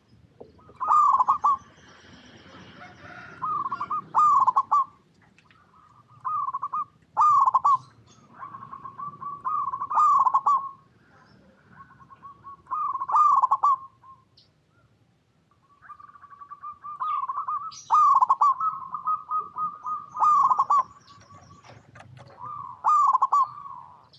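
Zebra dove (perkutut) cooing: short rolling coo phrases about every three seconds, some drawn out into longer trilled runs.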